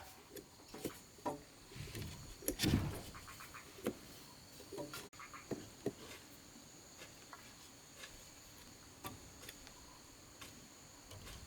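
Scattered light taps and knocks of bamboo or wood being handled, a few louder ones in the first three seconds, over a steady high-pitched drone of insects.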